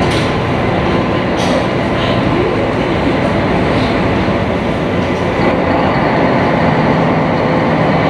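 A sightseeing boat's engine running steadily with the rush of water along the hull, heard from on board, with a couple of brief hisses in the first two seconds.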